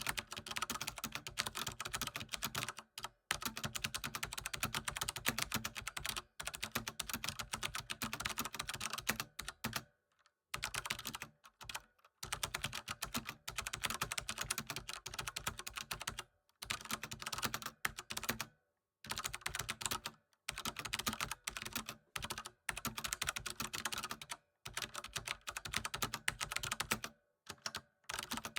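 Typing on a computer keyboard: fast, dense key clicks in runs of a few seconds, broken by brief pauses.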